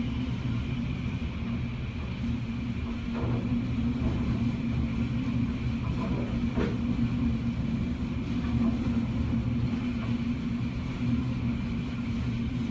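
Hurricane-force wind gusts rumbling against the house, heard from indoors through a thick window, with a constant low hum underneath.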